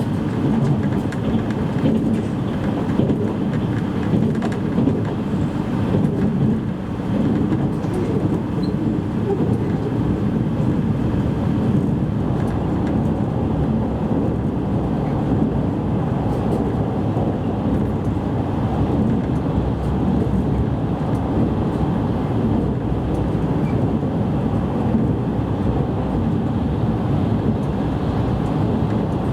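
Steady running noise heard inside the passenger car of a JR East E653 series electric train underway: an even, low rumble of wheels on rail and running gear.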